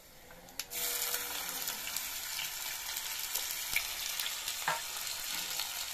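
Chopped ginger dropped into a kadai of hot oil with panch phoron, bursting into a sizzle about a second in and frying with a steady hiss.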